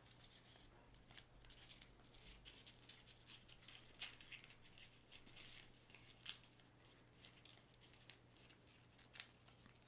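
Faint, scattered crinkles and light ticks of a sheet of printer paper being handled and creased as a flap is tucked into a fold.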